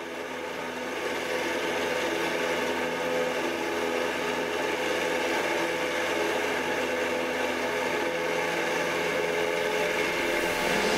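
Cessna 172's piston engine and propeller running steadily, growing louder over the first second and then holding an even pitch.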